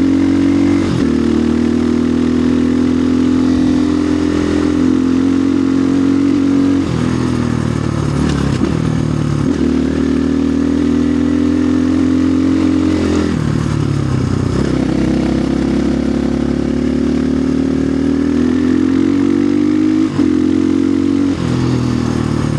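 2025 Orion RXB250XL dirt bike's engine running while riding, holding steady revs for several seconds at a time, with the pitch falling and climbing back several times as the throttle is eased off and opened again.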